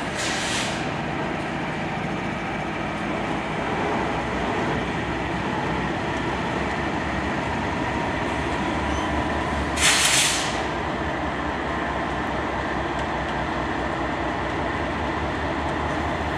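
Freight train rolling past, a steady rumble of railcars on the track, with a short burst of hiss about ten seconds in.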